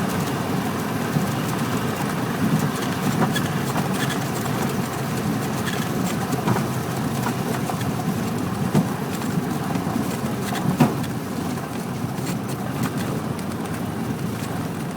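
Steady drone of a Cessna 172's piston engine and propeller heard inside the cabin, with a few short sharp clicks near the middle.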